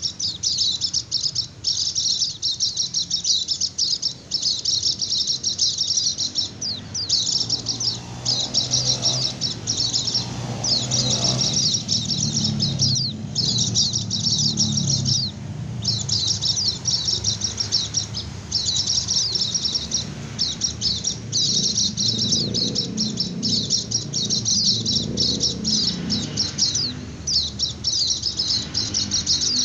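White-eye (pleci) singing its rapid 'ngecir' song: phrase after phrase of fast, high twittering trills with only short breaks between them. It is the excited song that lures wild white-eyes and sets other birds answering.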